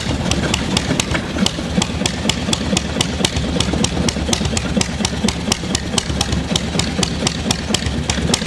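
24 horsepower Wrap semi-diesel (hot-bulb) engine running steadily, with a sharp, regular knock several times a second over a low hum.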